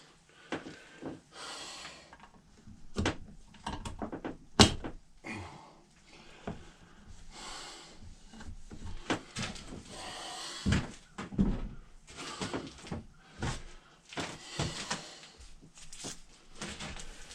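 Scattered light knocks and clicks with stretches of soft rubbing: handling noise as boiled linseed oil is worked into a wooden axe handle held in a vise. The sharpest knock comes about four and a half seconds in.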